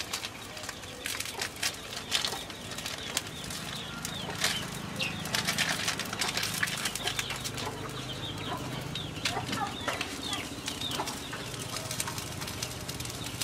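Birds chirping in many short, quick falling notes, over a low steady hum and faint crackling.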